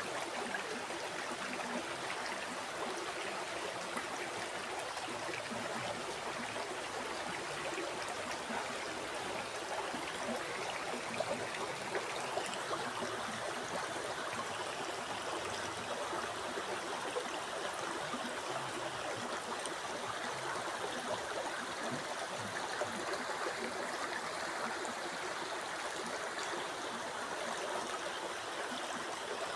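River water flowing over rocks: a steady rushing babble with small splashes and gurgles.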